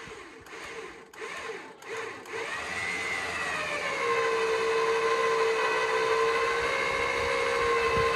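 Electric trailer winch pulling a car onto a trailer: after a few knocks, the motor starts whining about two and a half seconds in, climbs in pitch, then holds a steady whine under load.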